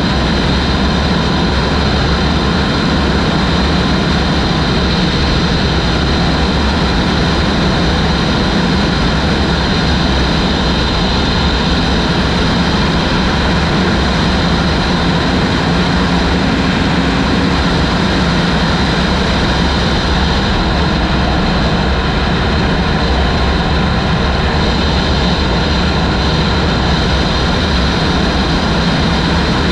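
Heavy wind noise on the microphone of a moving motorcycle, loud and steady, with the engine running underneath.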